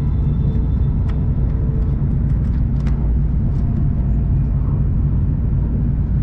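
Shinkansen bullet train running at speed, heard from inside the passenger car: a steady low rumble of wheels and running gear, with a few faint ticks.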